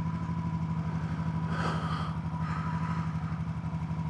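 Yamaha MT-07 parallel-twin engine running at steady revs with an even pulsing beat. A brief rush of noise comes about a second and a half in.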